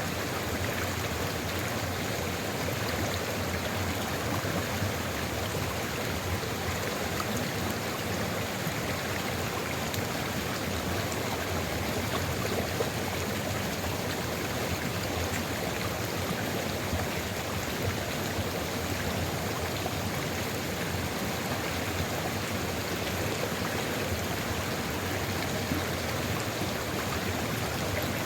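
Sulfur river flowing steadily, a continuous, even rush of running water.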